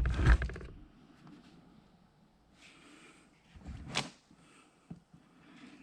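Handling noises as a box of car wiring is shifted on a bathroom scale: a burst of rustling and knocking at the start, faint scuffling, then one sharp click about four seconds in.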